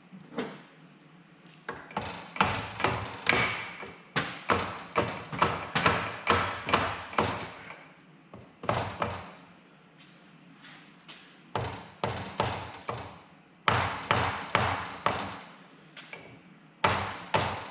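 Repeated sharp metal-on-metal blows, about two a second in several runs with short pauses, from a big flat-blade screwdriver being struck to drive loose a motorcycle engine wedged in its frame.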